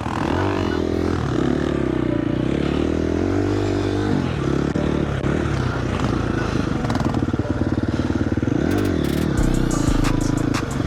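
KTM dirt bike engine running while riding, the revs rising and falling again and again as the throttle is worked. A run of sharp clicking rattles comes in near the end.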